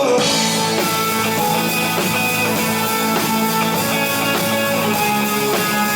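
A live rock band playing an instrumental passage between vocal lines, with strummed guitars over a drum kit.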